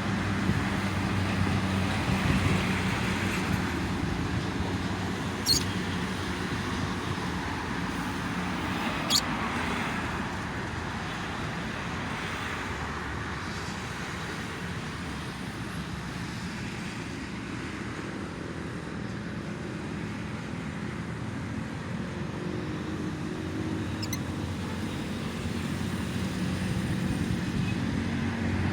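Continuous toll-road traffic: a steady wash of passing vehicles with low engine hum. Two short, sharp high sounds stand out, about five and nine seconds in.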